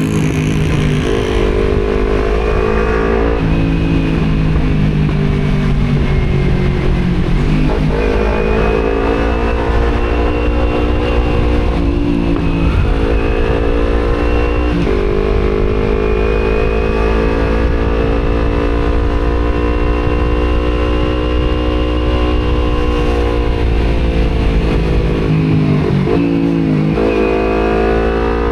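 Kawasaki Z250 parallel-twin with an Akrapovic exhaust, under way: the revs climb steadily and drop sharply at each gear change, about five times, with a longer dip in revs near the end. A steady rush of wind noise runs underneath.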